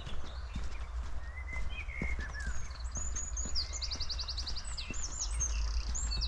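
Footsteps crunching along a forest path under a steady low rumble, while small songbirds chirp and, from about three seconds in, give rapid high trills.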